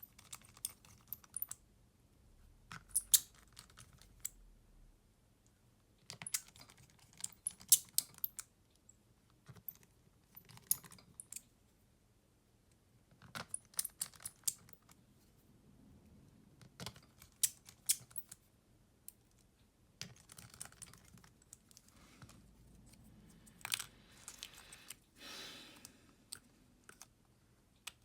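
Irregular clusters of small sharp clicks and taps from hand tools and the plastic and metal parts of a Xiaomi Redmi Note 11 being handled during repair work. A brief scrape comes near the end.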